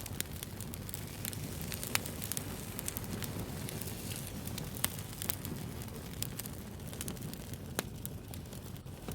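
Wood fire burning with a low steady rumble and irregular sharp crackles and pops, a few louder snaps scattered through.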